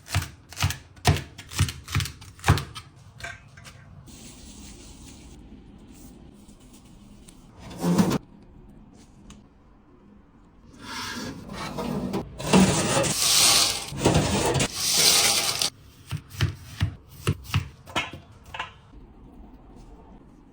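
Kitchen food-preparation sounds: sharp knocks, as on a wooden board, in quick runs near the start and near the end, with several seconds of rubbing or scraping in the middle.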